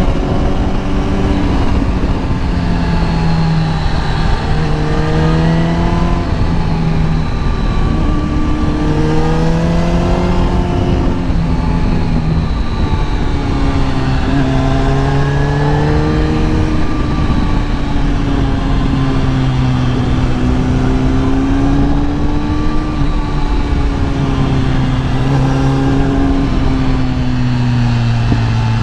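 Kawasaki ZX-10R inline-four engine accelerating through the gears, its pitch climbing and falling back with each shift several times over the first dozen seconds, then holding a steadier, slowly wavering pitch at speed, with dropping to a lower pitch near the end. A dense low rush of wind and road noise runs underneath.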